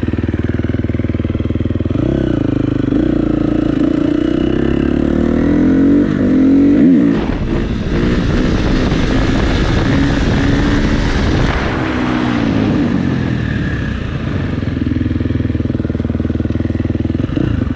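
Dirt bike engine running and revving, its pitch climbing to a peak about seven seconds in and falling away, then rising and falling again later.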